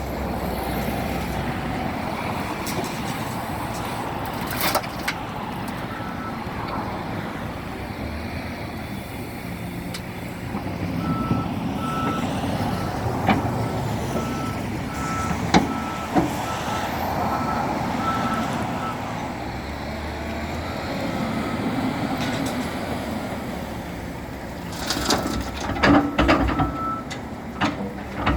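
Shovel-loader tractor working, its engine running steadily while its reversing alarm sounds a regular run of short high beeps in several spells. Scattered sharp knocks and a burst of clatter near the end come from the loader's work.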